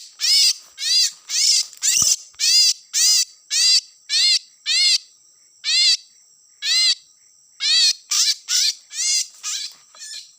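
Oriental magpie-robin (kacer) calling over and over: a rising-then-falling note about twice a second, with a pause of about a second and a half midway.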